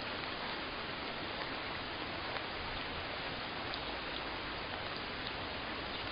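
Steady rainfall: an even hiss of rain with scattered individual drop taps.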